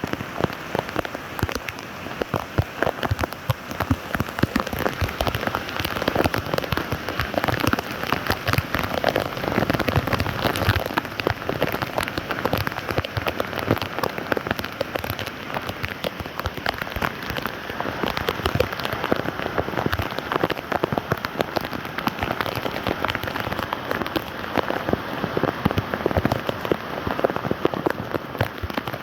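Steady rain pattering on standing water and hard ground, a dense unbroken patter of drops.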